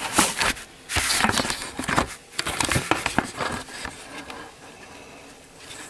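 Hands working plumber's putty onto a sink drain flange: irregular rubbing, squishing and small clicks, busiest for the first three seconds, then quieter.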